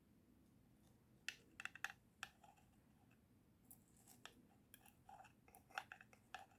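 Faint, scattered small clicks and snips of hands and a small tool working pieces of moss into a tiny plastic terrarium, growing more frequent in the second half.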